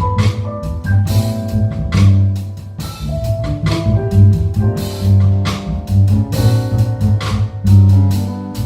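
Jazz piano trio playing: piano, bass holding strong low notes, and a drum kit with frequent cymbal strokes.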